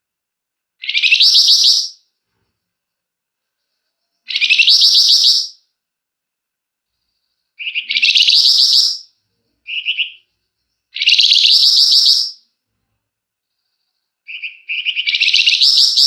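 Flamboyan bird singing its fast rattling trill ("ngebren") in bursts of about a second or so, five times, some led in by a short clipped note.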